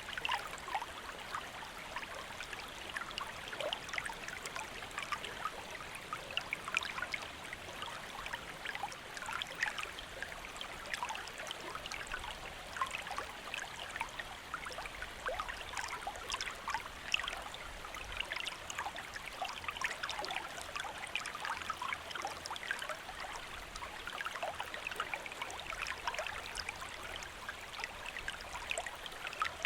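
Stream water running over rocks: a steady babble of many small splashes and trickles, with no pauses.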